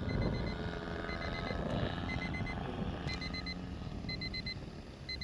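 Electronic timer alarm beeping in quick groups of four high beeps about once a second, over a steady low rumble. It is typical of an RC transmitter's flight timer having run out.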